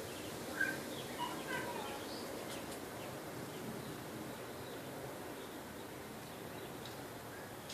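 A few short bird chirps about half a second to two seconds in, over a steady outdoor background hiss, with a few faint clicks later on.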